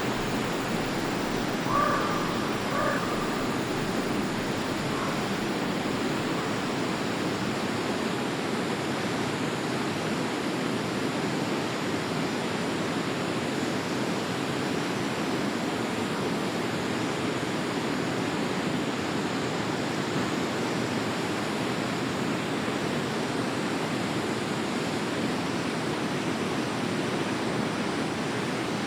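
Forest stream water rushing steadily, with a few short bird calls about two to three seconds in.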